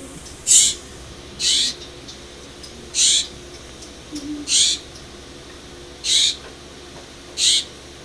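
A bird calling: six short, high calls, each under half a second, repeated about every one and a half seconds.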